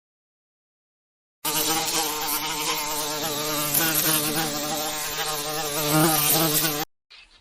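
Insect buzzing steadily in flight, a fly-like buzz, starting about a second and a half in, lasting about five seconds, and cutting off suddenly.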